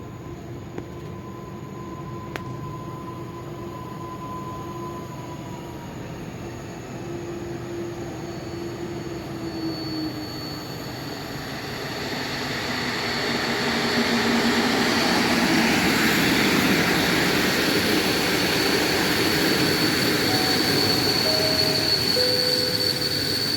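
A train approaching and running into the station, growing steadily louder until about fourteen seconds in. A high steady squeal from the wheels or brakes joins about ten seconds in and goes on to the end.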